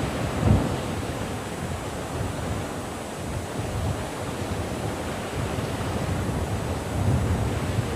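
Sea waves breaking on a rocky limestone shore: a continuous wash of surf with slow low surges and one heavier crash about half a second in.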